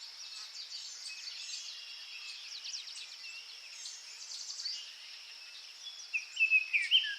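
Songbirds chirping in many short, quick calls over a steady high hiss, with a louder run of chirps about six seconds in.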